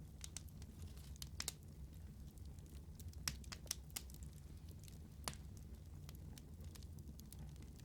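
Wood fire crackling, with irregular sharp pops over a low steady rumble. Three louder pops come in the middle.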